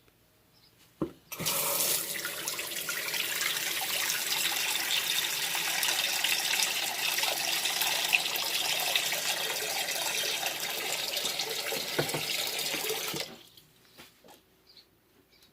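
A tap running water into a sink. A sharp knock about a second in, then the water starts abruptly and runs steadily until it is shut off near the end.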